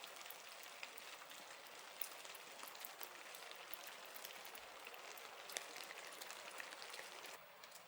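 Rain falling steadily: an even hiss dotted with many small drop ticks, easing slightly near the end.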